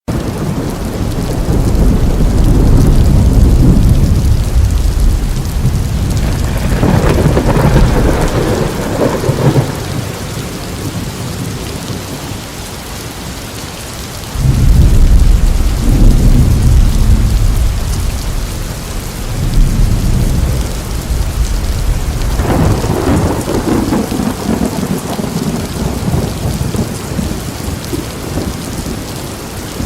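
Heavy steady rain with rolling thunder: several long deep rumbles come and go, the loudest breaking in suddenly about halfway through.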